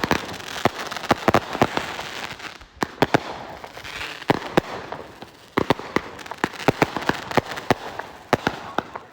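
Consumer fireworks going off close by: a long, irregular string of sharp bangs and crackles with brief lulls, thinning out near the end.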